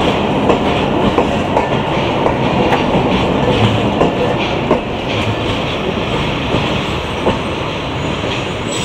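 Pakistan Railways passenger coaches rolling past on a departing express train: a steady rumble of wheels on the rails, broken by many irregular clicks and knocks.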